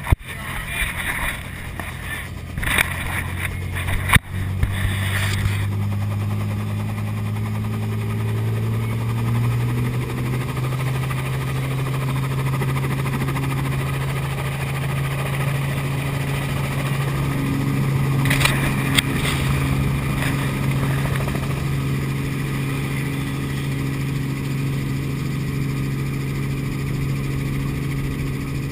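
Helicopter engine and rotor spooling up: after a sharp click about four seconds in, a steady hum rises in pitch over several seconds, then holds level at flight speed.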